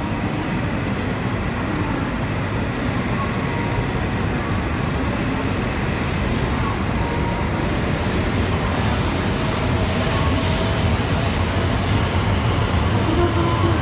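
E7 series Shinkansen train pulling out along the platform, its running noise slowly growing louder as it picks up speed.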